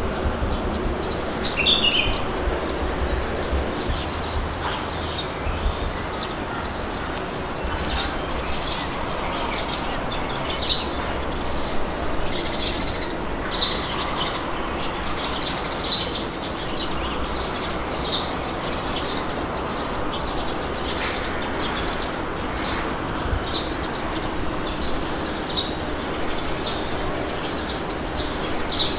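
Wind blowing steadily with a low rumble, and small birds chirping in short calls every second or so.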